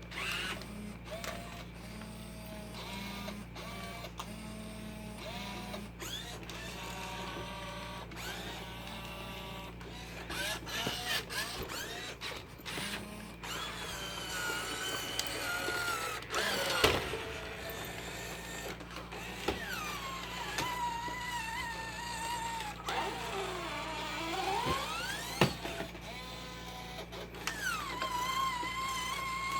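Robosapien V2 toy robot's small electric gear motors whining as it moves, the whine holding a pitch and then gliding up and down. Clicks throughout, and a sharp knock about 17 seconds in and another about 25 seconds in.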